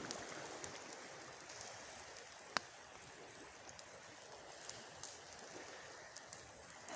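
Campfire burning: a faint steady hiss with one sharp crackle about two and a half seconds in.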